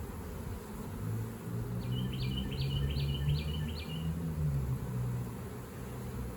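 A songbird sings a short phrase of about five quick repeated notes, over a low wavering hum that rises about a second in and fades near the end.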